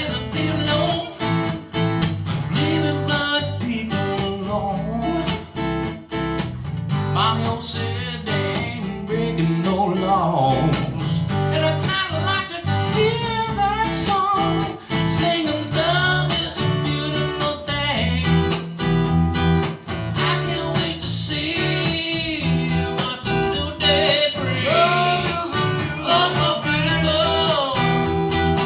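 Live band music with guitars to the fore, playing through a stretch without words between sung lines.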